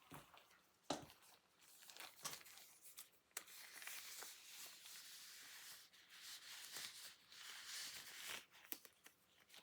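Faint rustling and crinkling, as of paper or plastic being handled, broken by scattered light knocks and clicks as household items are picked up and moved while tidying.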